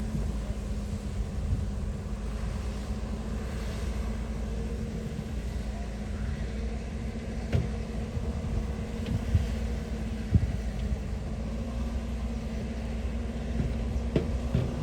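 Diesel engine of heavy construction machinery running steadily with a low rumble and a steady drone, with a few sharp knocks in the middle.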